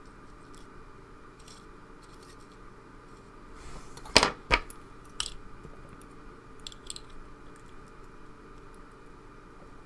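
Small metal clicks and taps from handling the internals of a pin-tumbler lock while it is taken apart, with two sharp clicks close together about four seconds in and a few fainter ticks after.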